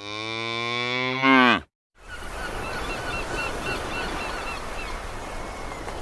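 A cow moos once: a long, low call with a rich stack of overtones that swells and drops in pitch at the end. After a short break comes a steady noisy background with a quick series of faint high chirps.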